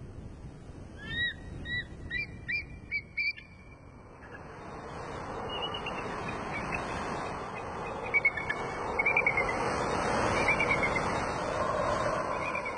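Several short chirping bird calls in the first three seconds, then a steady rushing sound that swells up and holds, with a few faint high calls over it.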